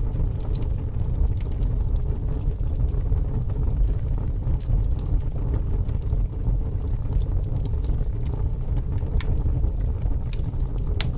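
Fire burning with a steady low rumble and scattered sharp crackles and pops, one louder pop near the end.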